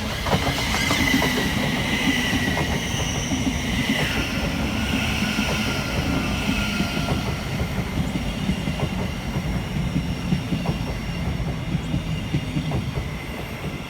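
Electric passenger train moving along the platform, with a steady rumble, high wavering wheel squeal and a run of clicks from the wheels crossing rail joints.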